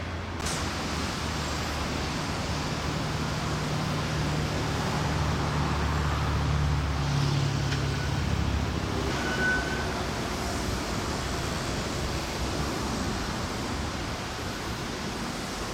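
Steady waterfront noise with wind on the microphone and a low engine hum that fades after about nine seconds.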